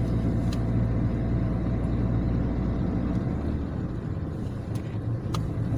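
Steady engine and road noise of a car being driven: a low, even hum that eases slightly about three seconds in.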